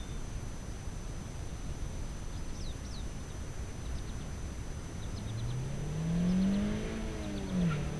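Exhaust of a 2009 Scion xB's 2.4-litre four-cylinder through a TRD sport muffler, coming in about five seconds in as the car accelerates, its pitch climbing steadily. Near the end the pitch falls sharply for a gear change on the five-speed manual and starts to climb again.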